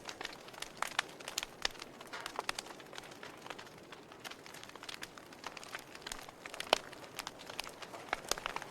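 Campfire crackling: irregular sharp pops and snaps of burning wood over a soft, steady hiss, with one louder pop near the end.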